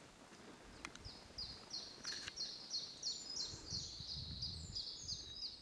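A songbird singing a song of the same short two-part phrase repeated over and over, about three times a second. It starts about a second in and runs on past the end. A few faint clicks and a low rumble of handling noise sit underneath it.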